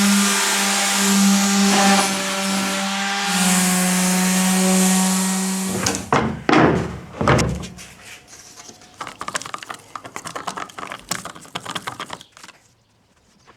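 Electric sander running steadily on the canoe's wooden deck with a high hiss over its motor hum, stopping about six seconds in. A few thumps follow, then scattered light knocks and clicks of handling.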